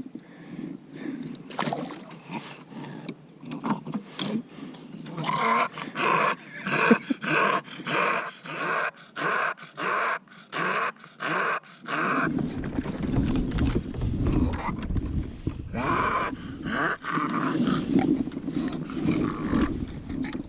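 Bulldog breathing noisily in a steady rhythm of about two breaths a second. A low rumble joins about halfway through.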